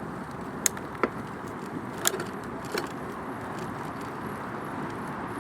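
Bicycle tyres rolling along a path, heard from a recorder mounted on the bike: a steady rush of rolling noise with a few sharp rattles and clicks from the bike in the first three seconds.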